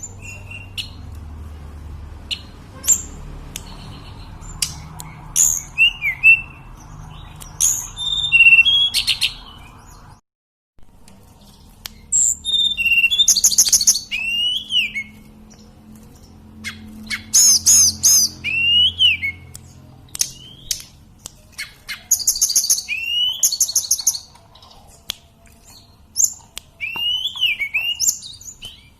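A tledekan gunung (sulingan gunung) songbird singing: repeated short, clear whistled phrases, some sliding up and down and some in quick trilled runs. The song is broken by a brief gap of silence about ten seconds in.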